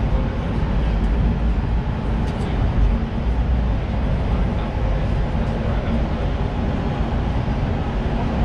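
Los Angeles Metro rail car running, heard from on board: a steady rumble with a low, even hum.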